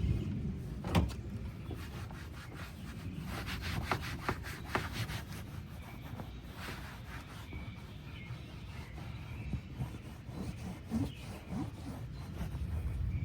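Scrubbing and rubbing on a car's interior surfaces during detailing: a run of quick scratchy strokes about four seconds in, then scattered single scrapes, over a steady low rumble.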